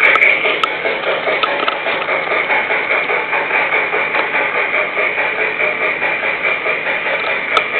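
Bachmann G-scale model locomotive running along the track, its electric motor giving a steady whine over the wheels' running noise.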